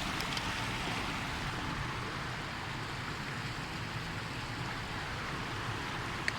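Floodwater gushing across a flooded road: a steady rushing of water.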